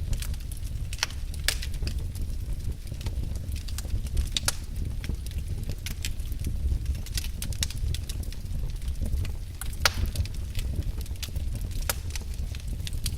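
Wood fire burning in a fireplace: a steady low rumble with sharp crackles and pops at irregular intervals, a few of them louder than the rest.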